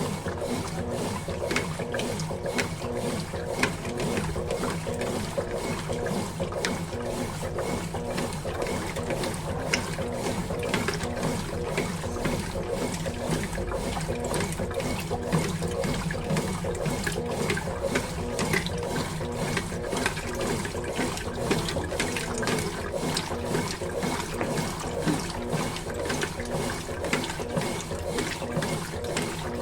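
Consul Facilite 11 kg washing machine running its second rinse, water sloshing in the drum with a steady mechanical churning and a regular, fast clicking throughout.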